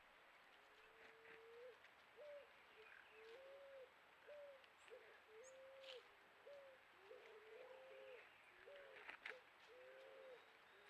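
Juriti (Leptotila dove) cooing: a run of soft, low hooting notes, some short with a hooked pitch and some longer and level, about one a second. Faint chirps of small birds sound above it.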